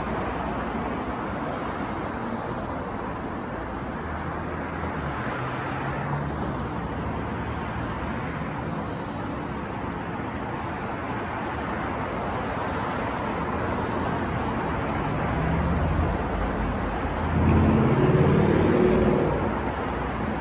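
City traffic noise: a steady wash of cars on the road. Near the end a heavier vehicle's engine passes close and louder for a couple of seconds.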